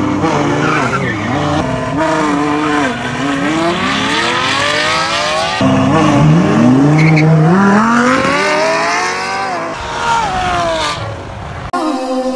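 Ferrari and Lamborghini supercar engines at full throttle on two standing-start launches, one after the other, each revving up in pitch with brief drops at the upshifts.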